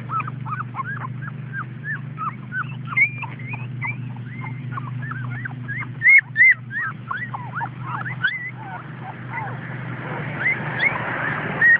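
A litter of pit bull puppies whimpering and yelping: many short, high, arching cries, overlapping several a second, over a steady low hum. Two loud bumps come about halfway through.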